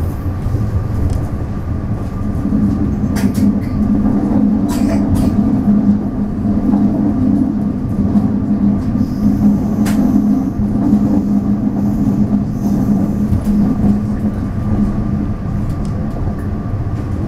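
Taiwan Railways DR3000 diesel multiple unit running along the line: a continuous wheel-on-rail rumble, with a steady engine drone that comes in about two seconds in and eases off near the end, and a few sharp clicks from the track.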